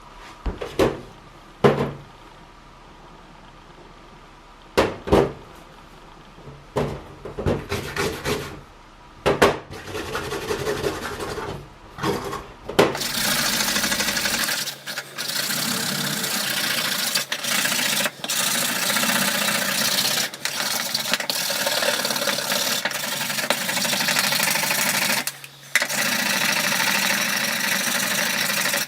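A few knocks and bits of handling clatter, then from about 13 seconds in a steady, continuous scraping rub with a few short breaks: the surface of a small metal Frisk mint tin being abraded to polish it.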